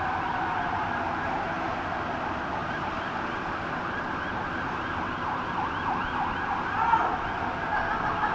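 Emergency vehicle sirens wailing, several overlapping and rising and falling in pitch.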